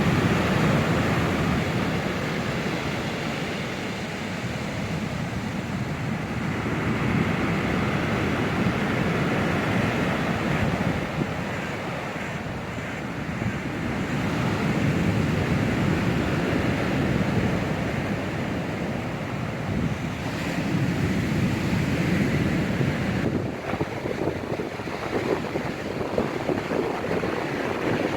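Storm surf on the Black Sea breaking on the shore, swelling and ebbing every several seconds, with strong wind rumbling on the microphone.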